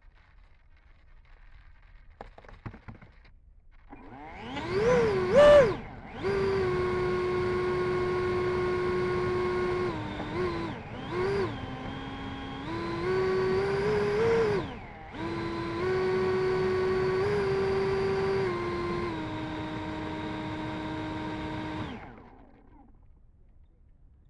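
Electric ducted fan of an E-flite F-16 Thunderbirds 70mm EDF model jet spooling up about four seconds in. It peaks briefly, then runs at steady pitches that step down and back up with the throttle, dipping around the middle, and winds down about two seconds before the end.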